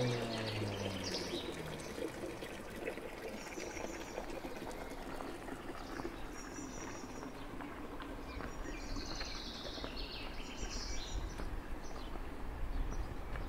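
Small birds chirping and singing in short high phrases several times over a steady outdoor background rush. A low falling tone dies away in the first second.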